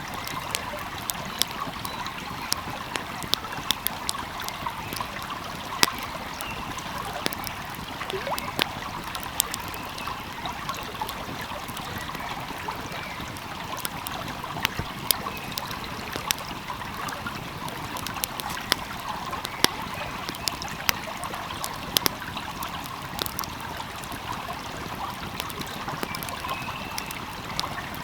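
Wood fire crackling, with frequent irregular sharp pops, over the steady rush of a flowing stream.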